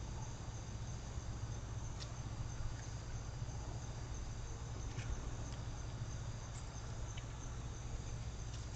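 Crickets chirping steadily in a fast, even pulse over a steady low hum, with a few faint clicks.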